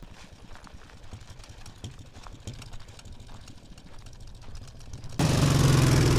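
Dnepr MT-10-36 motorcycle's flat-twin engine running roughly with an uneven low beat, then suddenly much louder and steadier about five seconds in. It is believed to be firing on only one cylinder.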